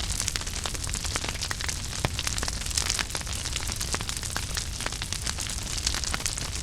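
Wood fire burning in a fireplace: a steady hiss with dense crackles and sharp pops throughout, one louder pop about two seconds in.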